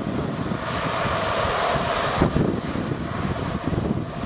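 Steam train running past with a steady rumble, wind buffeting the microphone.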